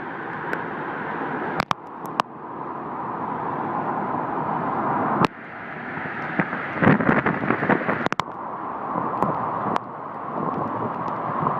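Strong storm wind rushing steadily and building in loudness, with scattered sharp knocks and a dense rattle of impacts about seven seconds in, typical of debris or hail striking.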